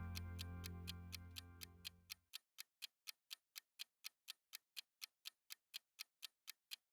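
Clock-like ticking sound effect of a countdown timer, a steady rhythm of about four ticks a second. Background music fades away under it over the first two seconds.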